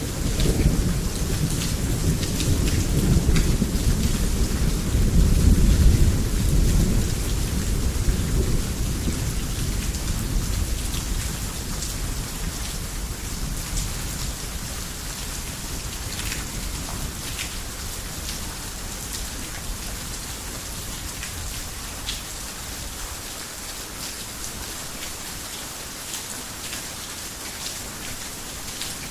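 Heavy rain falling on a roof, a steady hiss with scattered sharp drop impacts. A long roll of thunder rumbles through the first half, loudest about six seconds in, then fades away, leaving the rain alone.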